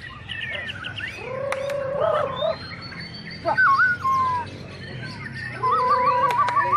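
A bird giving a string of loud whistled calls: warbling low notes, a clear whistle that steps down in pitch, and near the end a rapid trill of repeated notes.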